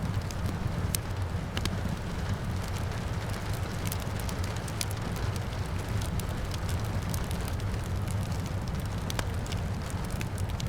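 Wood fire crackling and popping in a fireplace, with many sharp irregular pops over a steady low rumble, and rain falling outside.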